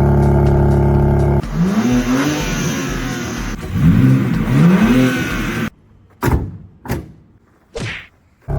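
BMW M3 Competition's S58 twin-turbo straight-six running at a steady drone, then revved several times from about a second and a half in, the pitch rising and falling with each rev. Near the end it drops away to near quiet, broken by three short sharp bangs.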